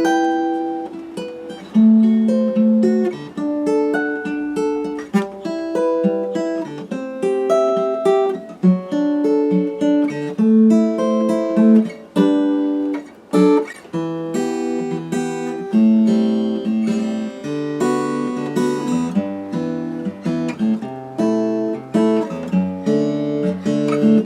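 Acoustic guitar music: a melody of picked single notes and chords with sharp attacks, playing without a break.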